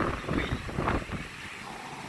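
Strong wind buffeting the microphone in uneven gusts, a rumbling rush that eases off about a second in.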